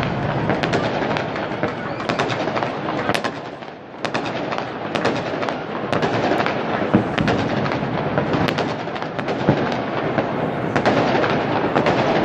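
Fireworks and firecrackers going off all around: a continuous din of many overlapping sharp bangs and crackles, with a brief lull about four seconds in.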